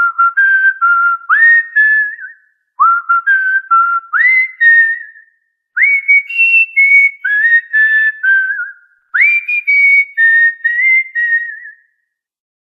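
Cockatiel whistling a short tune four times over, each phrase opening with a quick upward swoop and followed by a brief pause; the later phrases are pitched a little higher.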